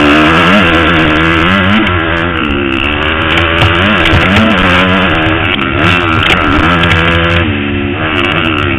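Motocross bike engine revving hard, its pitch climbing and dropping again and again as the throttle is opened and closed through the ride.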